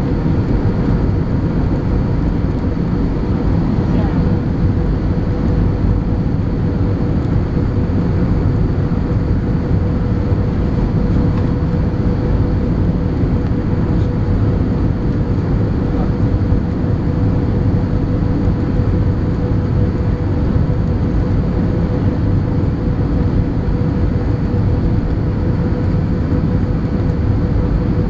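Steady cabin noise inside an Airbus A320 airliner: a continuous low rumble of engines and airflow with a steady hum riding on it, unchanging throughout.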